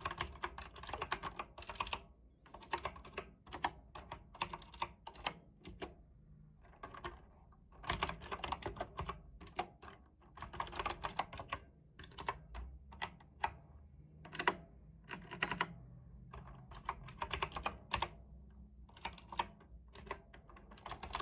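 Typing on a computer keyboard in quick runs of key clicks separated by short pauses.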